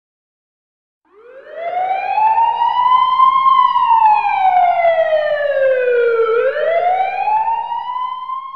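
Emergency vehicle siren wailing, starting about a second in: its pitch rises slowly, falls over about three seconds, then rises again near the end.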